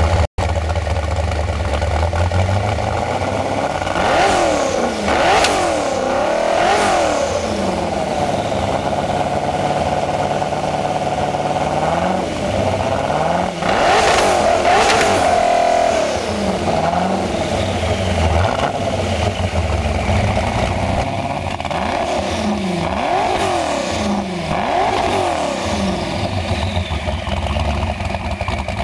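Saleen S7 Twin Turbo's twin-turbocharged 7.0-litre V8 idling, then revved loudly again and again through its quad exhausts: quick blips, a longer held rev, one sharp high rev midway, and a run of short blips near the end.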